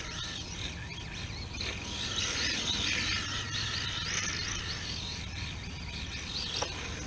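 Electric motor of an RC drift car whining up and down in pitch as the throttle is blipped over and over, over a low rumbling noise.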